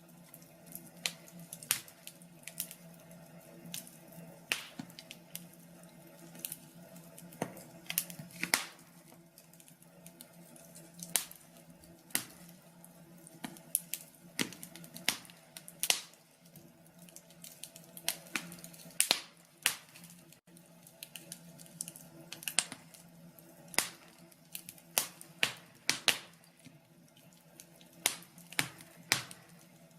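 Wood fire in a fireplace crackling, with sharp, irregular pops and snaps several times a second over a faint, steady low hum.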